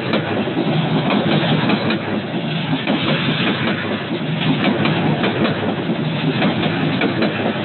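Metre-gauge PT INKA passenger coaches rolling past at close range: steady wheel-on-rail noise with frequent short clicks as the wheels cross the rail joints.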